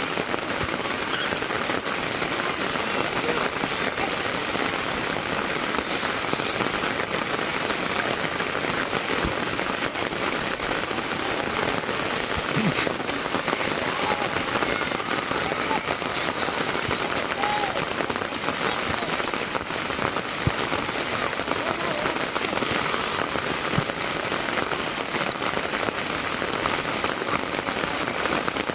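Heavy rain falling steadily, a dense even hiss of drops on the ground.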